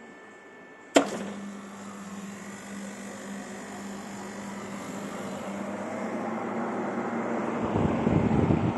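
S&A CW-6100AH industrial water chiller switched on with a sharp click about a second in, then running with a steady hum and a rushing fan and water noise that grows louder toward the end.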